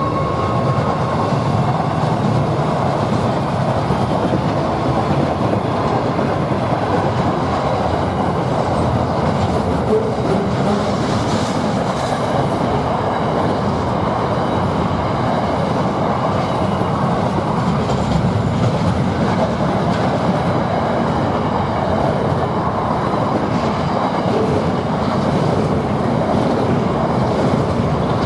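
A train rolling past close by: a steady, loud rumble of wheels on rail with a rhythmic clickety-clack of wagons over the rail joints. The tail of its horn fades out in the first second.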